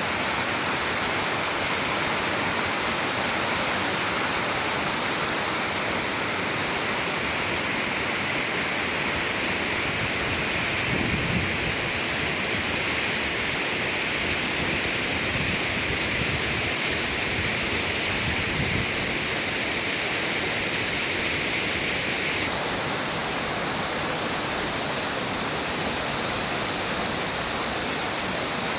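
Waterfall rushing: a dense, steady roar of falling water. About three-quarters of the way through the highest hiss drops off suddenly, as at a cut.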